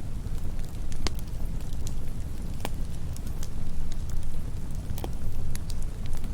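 Wood campfire burning with a steady low rumble of flames and irregular crackles and pops.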